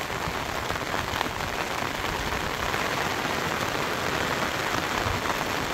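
Heavy rain falling steadily on rice paddies, grass and a water-filled channel: a dense, even hiss of drops with no break.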